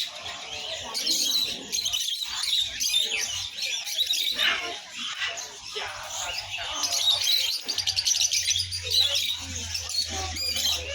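Many caged songbirds chirping and twittering at once in a dense, overlapping chorus.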